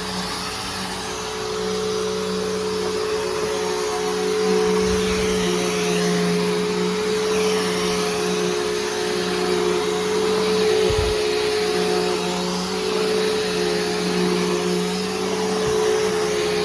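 Bissell Powerforce Helix Turbo upright vacuum, fitted with a new brushroll and belt, running steadily while vacuuming: a constant motor hum and airflow hiss, with a few brief low bumps.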